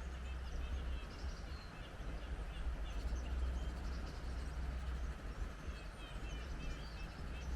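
Wind rumbling on the microphone, with many small birds chirping in quick, high notes above it.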